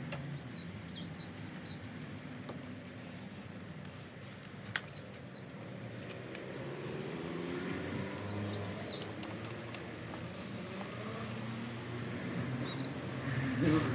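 A songbird singing short chirping phrases, four of them, a few seconds apart, over a steady low background hum. There is a single sharp click about five seconds in.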